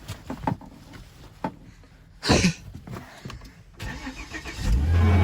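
A few clicks and knocks from handling things in the car, then about four and a half seconds in the car's engine starts in freezing weather and settles straight into a loud, steady idle.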